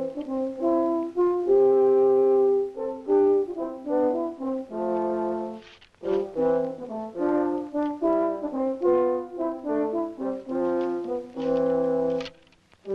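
Brass music: several instruments play a slow tune in harmony, with a short break about halfway through and another near the end.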